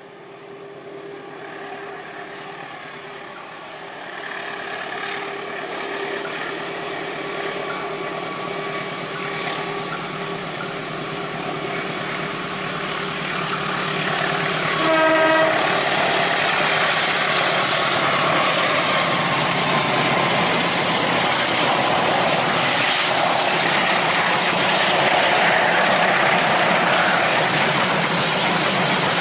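Diesel-electric locomotive hauling a long passenger train up a steep grade, its engine labouring and growing steadily louder as it approaches. About halfway through comes one short horn blast, then the loud rush of the engine and the coaches' wheels on the rails as the train passes close by.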